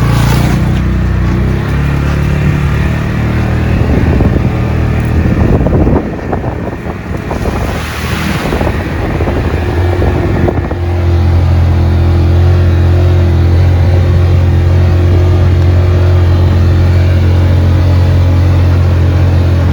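Vehicle engine running while driving, with a steady low hum that shifts in pitch and level a few times before settling into an even drone from about eleven seconds in.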